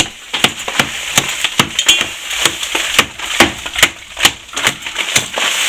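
Repeated sharp strikes, about two to three a second, of a hand tool cutting into old lath-and-plaster to open up a crack beside a chimney breast.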